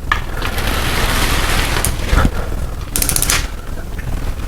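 Click-type torque wrench ratcheting on a Chevy 350 main bearing cap bolt during the final torque pass to about 65 foot-pounds, with a sharp knock about two seconds in and a quick run of ratchet clicks about three seconds in.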